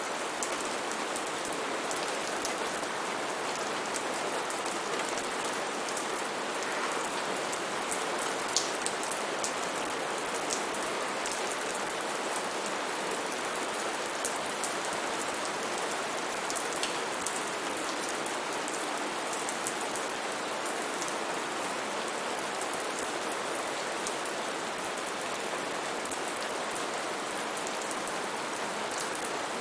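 Steady rainfall: a constant hiss of rain, with many individual drops pattering and ticking on nearby surfaces throughout.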